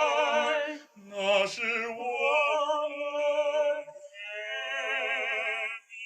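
A love song sung in a slow, operatic style, with long held notes and wide vibrato over a soft accompaniment. There are three phrases, with short breaks about a second in and about four seconds in.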